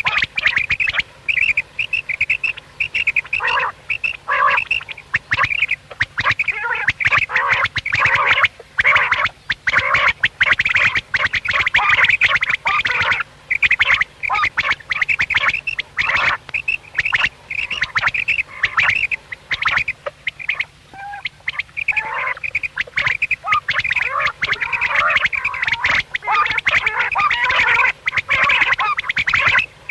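Quail calling in a rapid, near-continuous chatter of short, high notes, broken by a few brief pauses.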